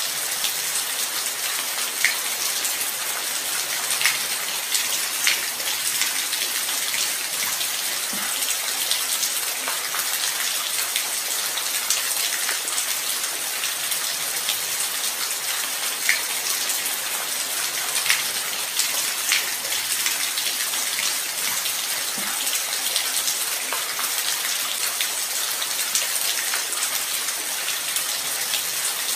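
Light rain falling: an even hiss, with single drops ticking sharply every second or two.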